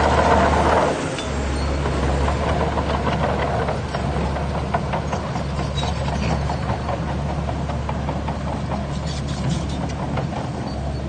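Heavy earthmoving machinery's diesel engine running steadily, its note dropping slightly about a second in, with a few faint knocks over the engine sound.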